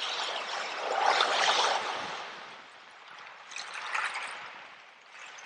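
Sea waves washing in, swelling twice: a larger wash about a second in and a smaller one around four seconds, each fading away.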